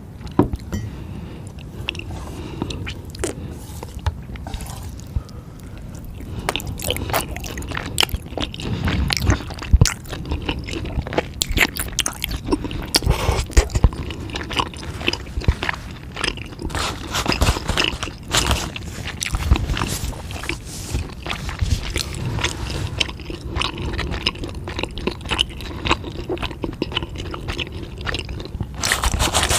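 Close-miked chewing and biting: a person eating, with dense, irregular crunching and crackling throughout.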